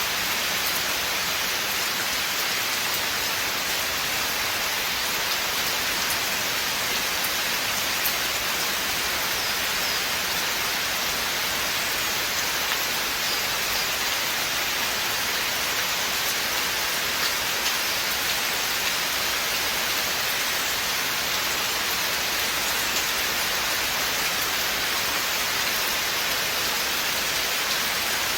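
Steady rain falling in a forest, an even hiss of many drops pattering on leaves and the ground, with no let-up.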